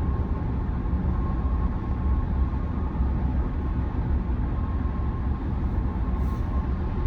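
Steady road and tyre rumble heard inside the cabin of a moving Tesla Model Y, an electric car, so there is no engine note. A faint steady tone runs underneath.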